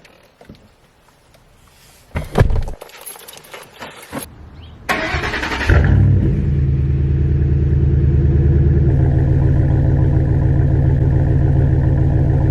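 Keys rattle and click, then a Ford F-150's V8 cranks briefly, catches about six seconds in and settles into a steady idle.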